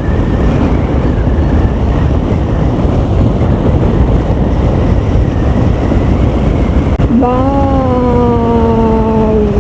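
Wind rushing over the microphone on a moving motorcycle, with the Bajaj Pulsar 220's engine running under it. Near the end a person holds one long, slowly falling vocal note.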